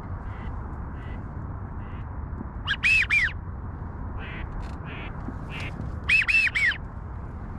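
Wigeon whistles, loud and close: two notes about three seconds in and a quick three-note whistle about six seconds in, each note rising then falling in pitch. Fainter calls from other ducks come in between.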